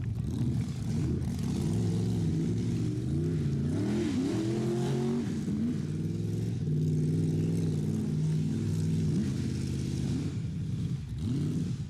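Rat rod engine running and being revved, its pitch rising and falling several times and highest about four to five seconds in, then holding steady for a few seconds before dipping.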